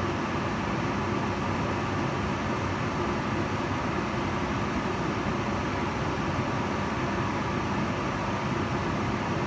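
Kitchen range hood extractor fan running steadily: an even rushing of air with a low motor hum.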